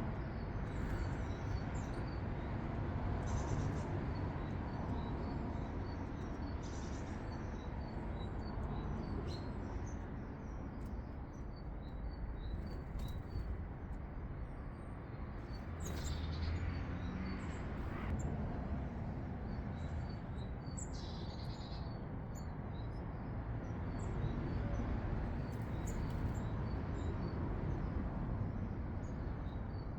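Short, high chirping calls of small garden birds, repeated at intervals throughout, over a steady low background rumble.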